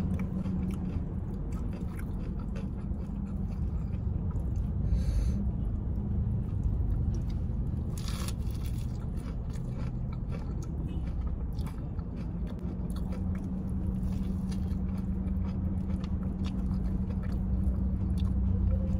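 Close-up eating sounds: chewing and crunching of crispy smashed fried chicken with rice, eaten by hand from a paper box, with small crackles and one brief louder rustle about eight seconds in. A steady low hum of the car runs underneath.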